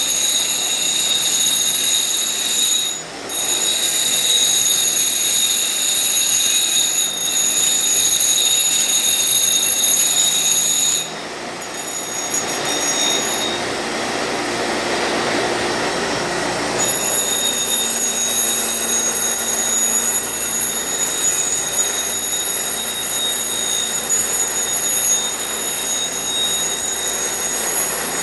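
A machine or power tool in the exhaust shop running with a loud, steady high-pitched whine. It dips briefly a few times and gives way to a rushing noise for several seconds partway through before the whine resumes.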